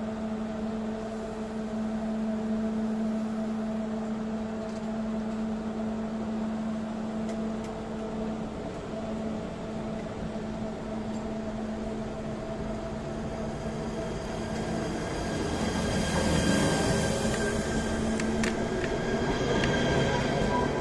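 A railway train: a steady low hum, then from about two-thirds of the way through the train's rumble grows louder, with high, thin squealing tones over it near the end.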